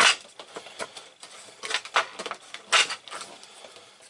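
A piece being cut off a drain fitting by hand: irregular scraping and clicking, with a few louder sharp cracks at the start, about two seconds in and near three seconds.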